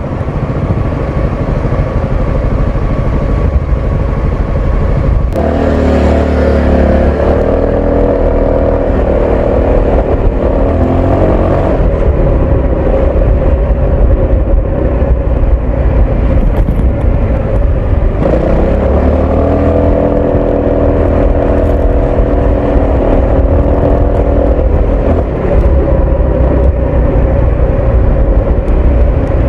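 Honda ADV 350 scooter's single-cylinder engine and exhaust under way: steady running, then rising in pitch as it accelerates about five seconds in, settling to a cruise, and accelerating again just past the middle.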